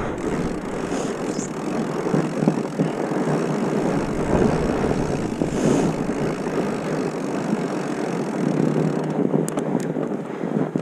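Steady rushing wind noise on the microphone, with the rolling rumble of riding down a dirt trail.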